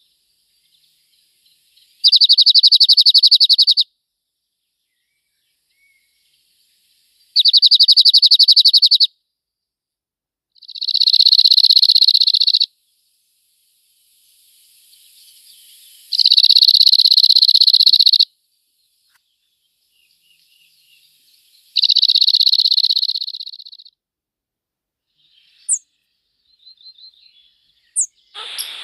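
A small songbird singing five loud trilled phrases of about two seconds each, separated by pauses of several seconds, with a few faint short chirps near the end.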